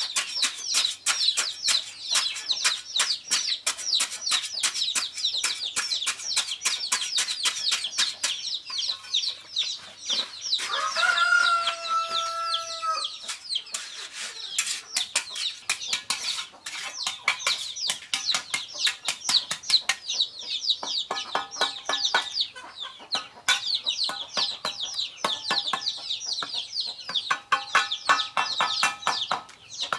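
A flock of chickens: constant rapid high-pitched peeping, one long crow of about two and a half seconds around eleven seconds in, and bursts of clucking in the last third.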